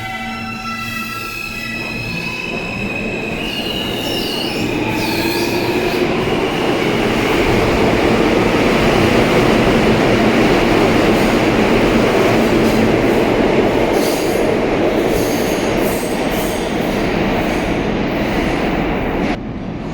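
New York City Subway R160-series train running through the station: high whining tones that step in pitch and wheel squeal in the first few seconds, then the rush and rumble of wheels on rail builds to its loudest about halfway through and holds. The sound drops sharply just before the end.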